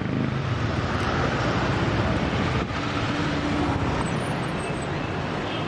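Street traffic: a steady wash of passing cars and engine noise.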